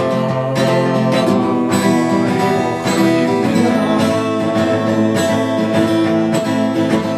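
Music: acoustic guitar strumming chords, with no singing.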